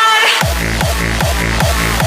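Hard techno playing loud in a DJ mix: a short breakdown ends as a held pitched sample fades out. About half a second in, the heavy pounding kick drum drops back in at about three kicks a second.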